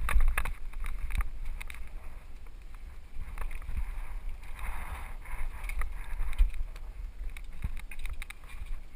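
Specialized FSR Pro full-suspension mountain bike rattling and knocking over rocks, many scattered short clacks, with wind rumbling on the helmet camera's microphone, loudest in the first second.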